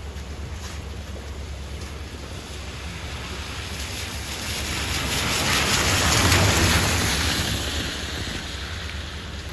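Wind rushing in a snowstorm, steady at first, then swelling to a peak about six seconds in and easing off again.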